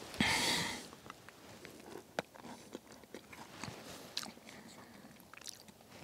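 A person chewing a bite of pumpkin pie with an almond-flour crust: soft mouth and chewing sounds with small scattered clicks. A brief hiss of noise comes just after the start and is the loudest sound.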